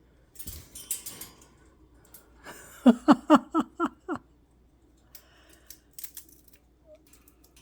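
An African grey parrot moving about its cage, with scattered light clicks and scrapes of beak and feet on perches and wire. About three seconds in comes a quick run of six short voiced pulses, like a laugh.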